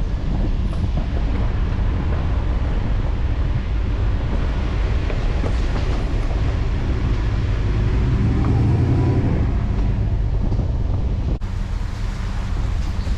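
Road noise inside a Chevy Suburban driving on a gravel road: a steady low rumble of tyres on gravel, swelling around eight or nine seconds in and dropping abruptly a little past eleven seconds.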